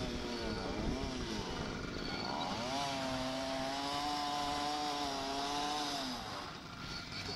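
Dirt bike engine revving: a few quick blips up and down, then held at a steady high rev for about three seconds before dropping back near the end.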